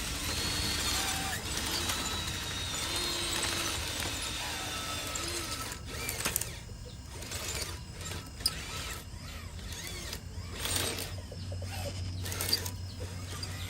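Small electric motors and gearboxes of RC construction machines whining, the pitch gliding up and down, followed from about halfway through by a run of rattling clicks and knocks.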